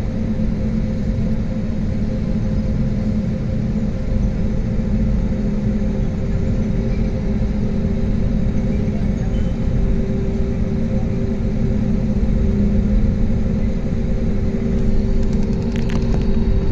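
Airliner jet engines running, heard from inside the passenger cabin: a steady low rumble with a few steady hums, and a short run of clicks near the end.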